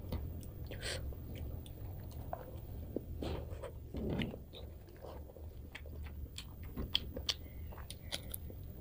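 Close-up eating sounds: chewing and wet mouth smacks as rice with fish curry is eaten by hand, a run of small clicks and smacks over a low steady hum.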